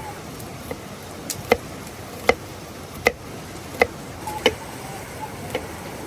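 Rhythmic chopping strokes, sharp knocks about one every three quarters of a second, over a steady background hiss.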